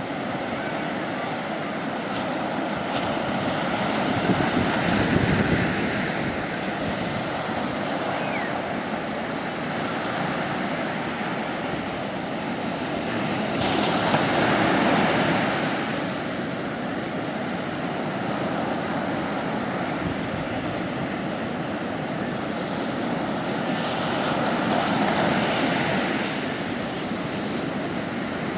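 Sea waves washing onto a beach: a steady surf hiss that swells into a breaking wave about every ten seconds, three times.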